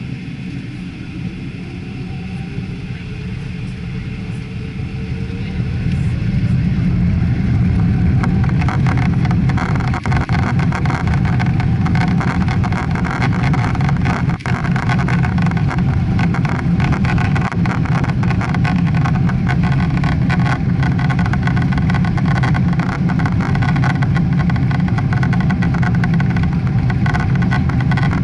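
Boeing 777 jet engines spooling up to takeoff thrust: a rising whine over the first several seconds, then a loud, steady rumble with frequent small knocks as the airliner accelerates down the runway.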